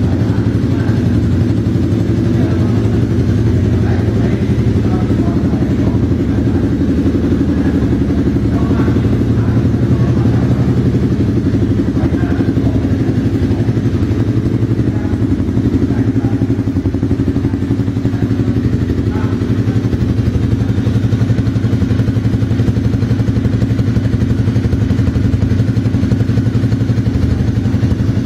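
Honda CBR250R's single-cylinder engine idling steadily through an aftermarket Bizumo exhaust.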